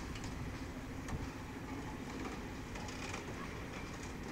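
Work train's wagons rolling past on the rails: a steady rumble of wheels on track with a few light clicks.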